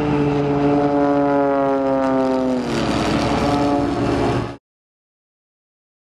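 An aircraft flying past: a steady engine tone whose pitch slides down about two and a half seconds in as it passes, cutting off abruptly a little over four seconds in.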